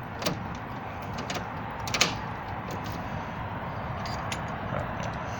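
Steady background noise with a few sharp clicks, the loudest about two seconds in.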